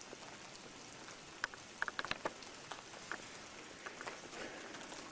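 Steady rain falling, with scattered sharp taps of drops landing on an umbrella close by, several in quick succession about one and a half to two seconds in.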